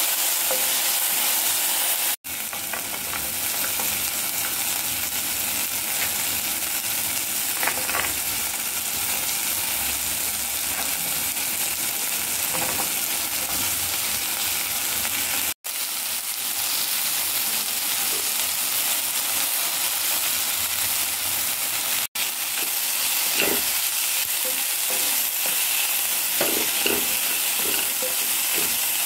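Chopped onions, tomatoes and diced vegetables sizzling as they fry in a wok, with a wooden spatula stirring and scraping against the pan. The sizzle cuts out for an instant three times, and the spatula's scrapes and taps come more often in the last few seconds.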